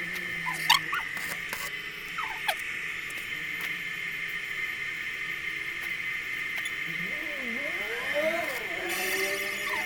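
Birds calling: a few short, sharp rising chirps and lower wavering calls that grow busier near the end, over a steady high-pitched drone.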